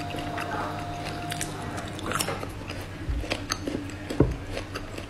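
Close-miked chewing and biting of spicy braised beef skin, with many small wet clicks. Two dull thumps come about three and four seconds in.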